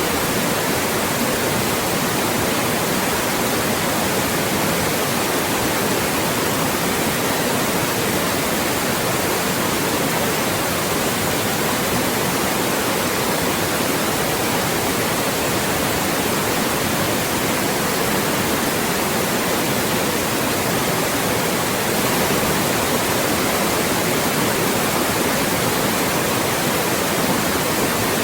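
Loud, steady white noise used as a speech blocker: an even hiss across the whole range of pitch that never changes.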